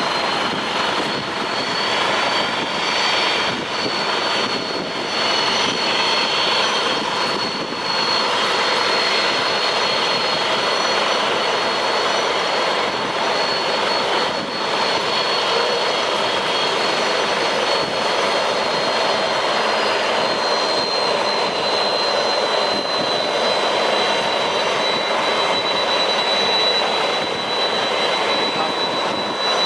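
Jet engines of a Boeing 747-400 freighter running steadily: a loud rushing noise with a high whine that holds its pitch, then drops slightly past the middle.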